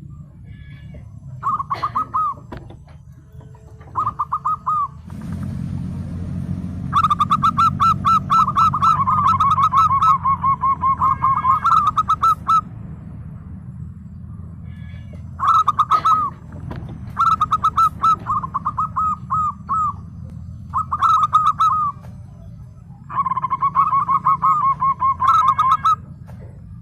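Zebra dove (perkutut) singing its rapid, staccato cooing song in repeated bouts, the longest lasting about five seconds, over a steady low hum.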